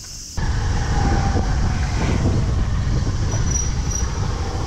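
Honda Super Cub 50's small single-cylinder engine running as the scooter is ridden, with heavy wind rumble on the microphone. The sound starts suddenly about half a second in.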